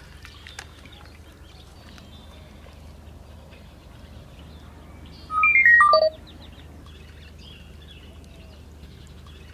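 A quick run of electronic beeps, each a clear single tone, stepping down in pitch over about a second, about five seconds in, over a steady low hum.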